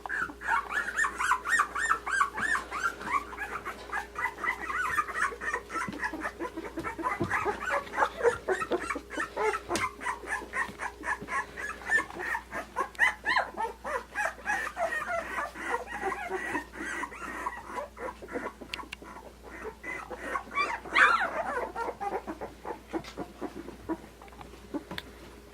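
Litter of two-week-old Australian Shepherd puppies whimpering and squeaking, many short high calls overlapping, with one louder squeal about 21 seconds in.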